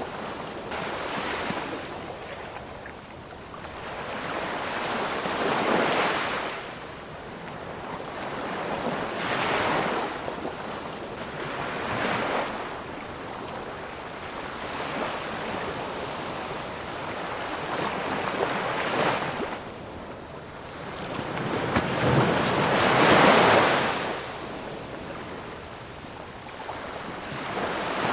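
Ocean waves breaking and washing on the shore: a steady rush of surf that swells and falls back every few seconds, with the loudest break a little before the end.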